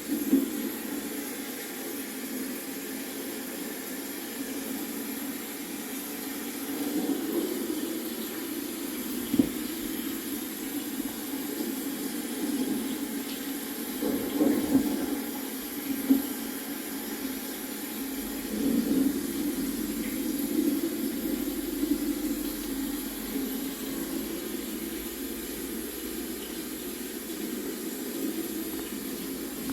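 Recorded storm sounds played back: a steady rush of rain that swells louder several times, with a couple of sharp knocks.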